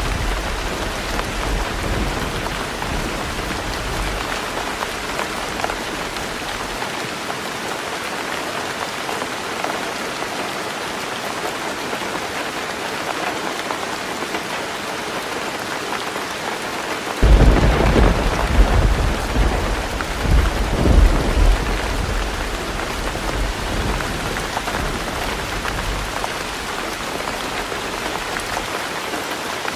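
Heavy rain falling steadily on a roof, with thunder. A rumble dies away over the first few seconds, then a sudden thunderclap comes a little past halfway and rolls on for several seconds before fading.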